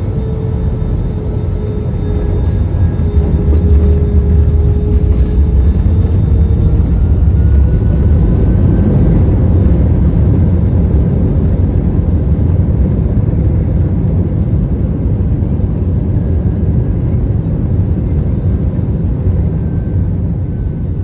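Jet airliner cabin noise: a loud, steady low rumble of engines and airflow that swells about two seconds in, with a faint whine above it.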